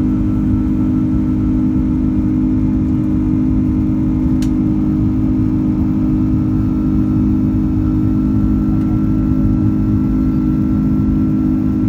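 Airbus A330-200 cabin noise: the steady drone of the jet engines and rushing air, with a deep constant hum. A single brief click sounds about halfway through.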